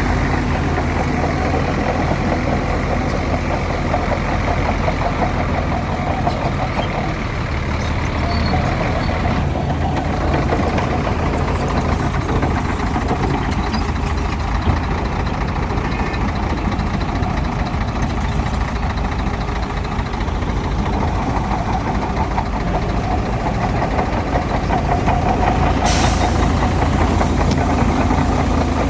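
Heavy diesel engines of a bulldozer and dump truck running steadily on an earthmoving site, with a short burst of air hiss about 26 seconds in.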